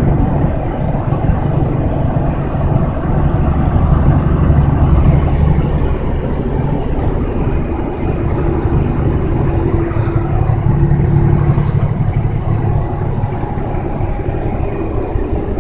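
Truck engine and road noise, a steady low rumble.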